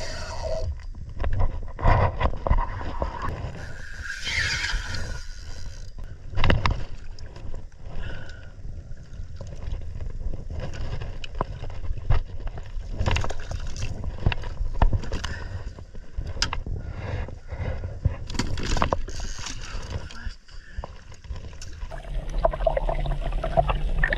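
Water sloshing and gurgling against the hull of a Hobie Revolution 13 kayak, with irregular knocks and scrapes on the boat and a steady low rumble.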